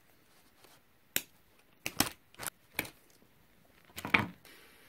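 Supplies being picked up and set down: about half a dozen short knocks and clicks, the loudest about four seconds in.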